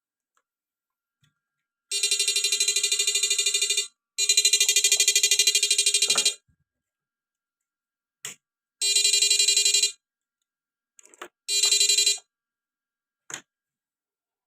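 Small electrofishing machine (inverter) buzzing in four bursts of about one to two seconds, each with a rapid pulsing, as it is switched on and off, with short clicks between the bursts.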